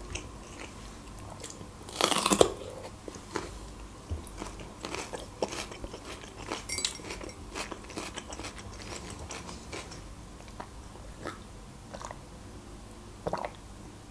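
Close-miked chewing of crisp onion: crunching bites and small wet mouth clicks all through, with one louder crunch about two seconds in.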